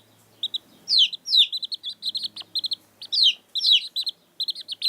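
Small birds chirping: runs of short, high chirps mixed with quick downward-sliding notes, coming in several bursts with brief pauses between.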